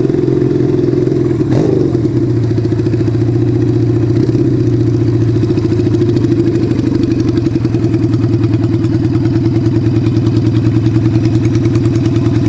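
Motorcycle engine running at low speed, settling into an even, pulsing idle in the second half. A single click sounds about a second and a half in.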